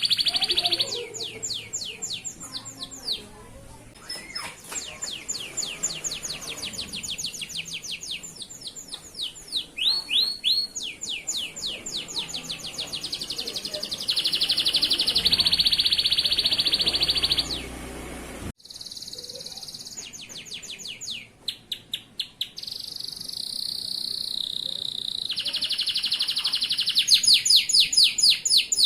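Male canary singing a long song of rapid trills and rolls, fast repeated sweeping notes alternating with buzzy held phrases, broken off suddenly for a moment about two-thirds of the way through before resuming.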